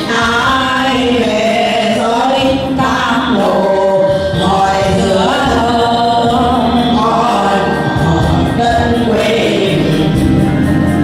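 A group of voices singing a song together over instrumental backing music.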